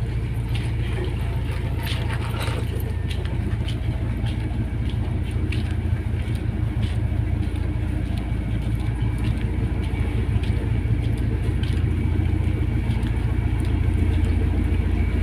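Steady low engine rumble and drone, unchanging in pitch, with faint scattered clicks and knocks over it.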